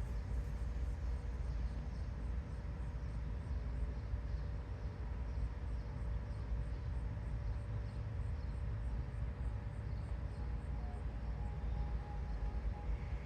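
Steady low outdoor rumble, with faint high chirps repeating about three times a second.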